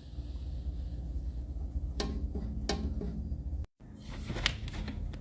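A few short sharp clicks from hand tools tightening engine bolts, over a low steady hum.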